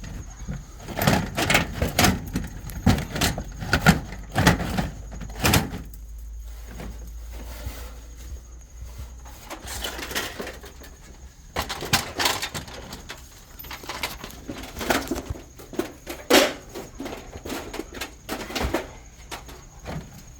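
Irregular clusters of sharp knocks and clatter from work on siding: a hammer striking and siding panels being handled while a new corner post is nailed in, with a quieter stretch in the middle.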